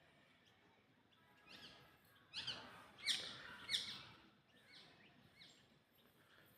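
A songbird singing a run of short, high notes, each sweeping down in pitch. The notes grow loudest about halfway through, then trail off, over faint outdoor background noise.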